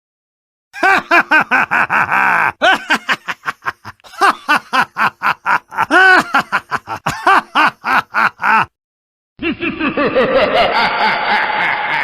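Laughter sound-effect clips. A run of rapid, pulsing ha-ha laughter with brief breaks, then, after a short silence, another laugh with a duller, more muffled sound near the end.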